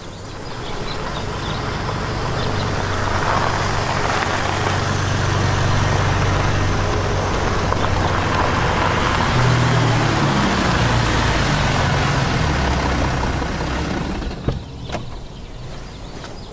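Audi A5 coupe's engine running as the car drives up and pulls to a stop, growing louder over the first couple of seconds and shifting in pitch as it slows. The engine dies away about fourteen seconds in, followed by a few clicks as the driver's door opens.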